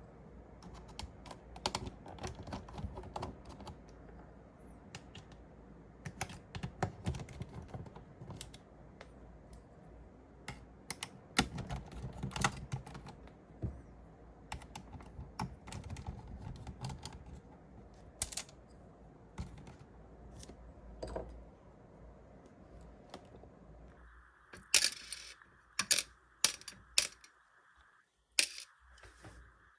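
Irregular small clicks and taps of tools and plastic and metal parts being handled while an LCD device is taken apart. About three-quarters of the way through, the background changes and a handful of louder, sharper clicks follow.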